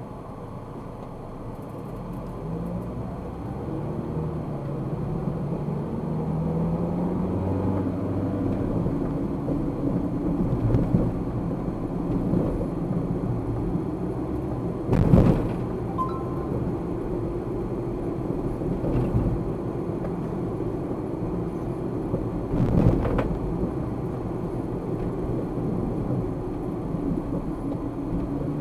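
Car interior road noise picked up by a dashcam: the engine note rises as the car speeds up over the first several seconds, then settles into a steady engine and tyre rumble. Two louder thumps come about 15 and 23 seconds in, with a short faint beep just after the first.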